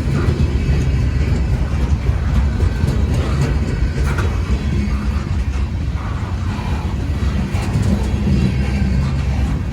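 Freight train cars rolling past: a steady rumble of wheels on rail with scattered faint clicks.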